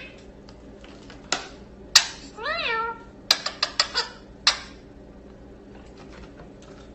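A single meow-like call, rising then falling, about two and a half seconds in, with sharp clicks before it and a quick run of clicks after it.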